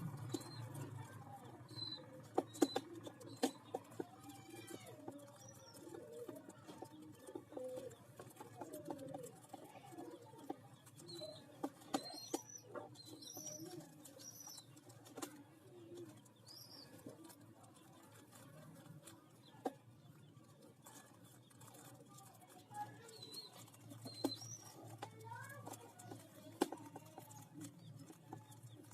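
Young pigeons (squabs) making high, squeaky peeping calls with lower wavering notes, among scattered sharp clicks.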